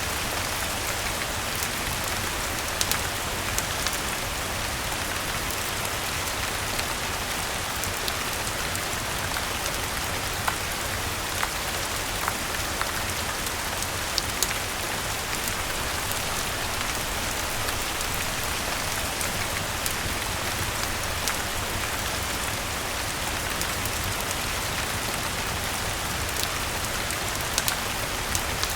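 Steady rain falling, an even hiss, with scattered sharp pops and taps every second or two.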